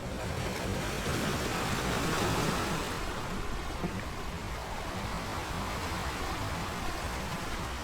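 Ocean surf: a steady wash of waves, with one wave swelling and breaking louder about two seconds in.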